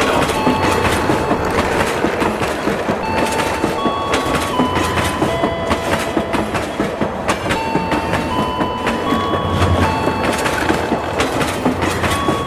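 A train running on rails: a steady rumble and clatter of wheels, with thin squealing tones that hold and then shift to a new pitch every second or so.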